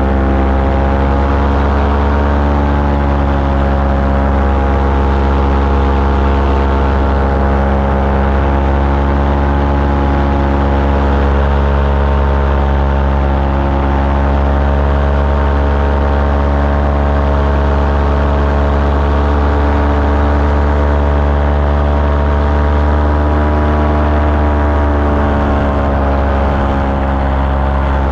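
Small aircraft engine running steadily in flight, its pitch wavering slightly up and down as the throttle or load changes.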